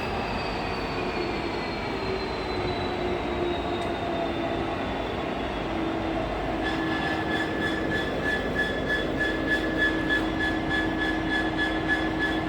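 Train slowing in the station, its whine falling steadily in pitch. It then settles into a steady hum with a high tone that pulses quickly and evenly.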